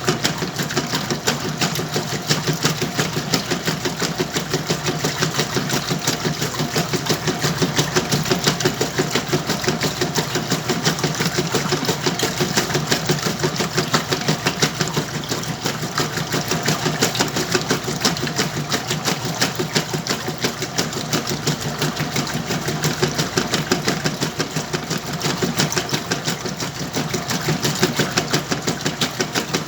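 Whirlpool washing machine running through its cycle: a steady, fast mechanical clatter of several pulses a second over a low motor hum.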